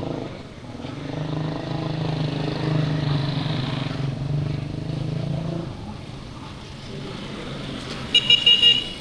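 A motor vehicle's engine hum swells as it passes close by and fades after about six seconds. Near the end a vehicle horn gives four short beeps in quick succession.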